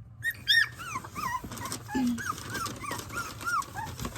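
Three-week-old Australian Labradoodle puppies whimpering in a quick run of short, high squeaks that rise and fall in pitch. The loudest squeaks come near the start.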